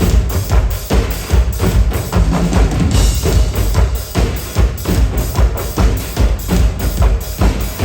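Live stage percussion performance: a fast, steady beat of drums and struck percussion, about four hits a second over a deep bass drum, with a brief cymbal-like hiss about three seconds in.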